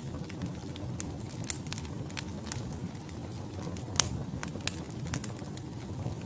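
Wood fire burning in a fireplace: a steady low rush of flames with frequent sharp crackles and pops from the logs, two louder pops about four seconds in and just after.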